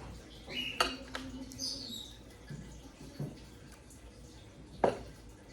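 Fork and knife clinking on a plate a few times during a meal, the sharpest clink near the end, with a brief high-pitched squeak about a second in.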